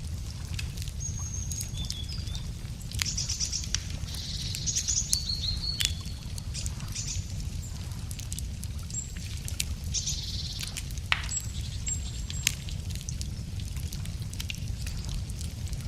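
Wood campfire crackling with frequent sharp pops, a couple of them louder in the second half. Small songbirds sing short, high, chirping phrases several times over it, above a steady low rumble.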